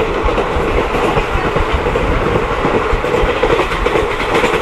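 Mahamana Express passenger train running along the track: a steady rumble with continuous wheel clatter over the rails.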